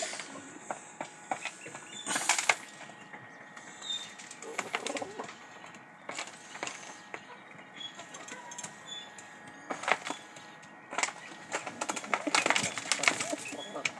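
Pigeons cooing, with bursts of wing flapping about two seconds in and again near the end.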